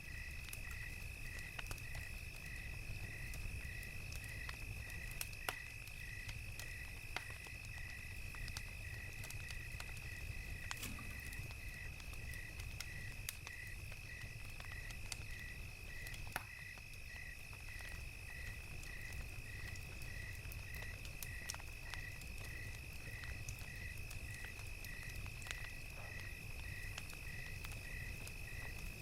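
Crickets chirping: one steady high trill, with another chirp repeating evenly under it at a little under two a second. A crackling campfire pops now and then, over a low steady rumble.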